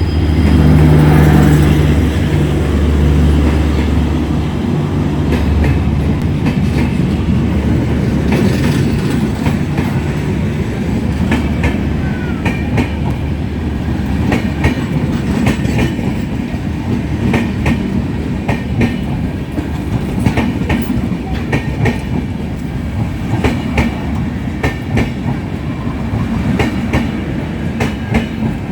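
Passenger train running along the platform. A locomotive's deep engine hum is loudest in the first few seconds, then the coaches roll past with a steady rumble and a repeated clickety-clack of wheels over rail joints.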